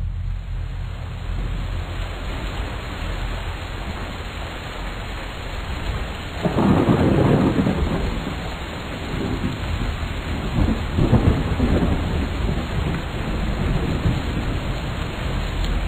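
Steady rain with a low rumble of thunder; a loud peal of thunder breaks about six and a half seconds in and rolls on for a couple of seconds, and a second peal comes around eleven seconds in.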